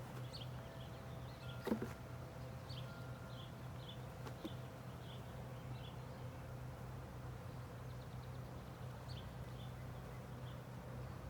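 Honeybees buzzing with a steady low hum around an open hive, with one sharp knock about two seconds in and short high chirps repeating throughout.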